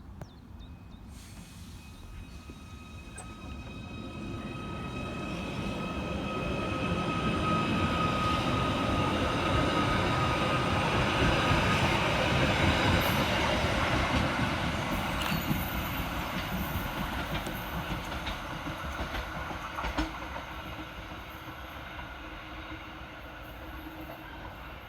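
Merseyrail Class 777 electric multiple unit departing and passing by. Its running noise and a steady electric whine grow louder to a peak about halfway through, then fade as it draws away.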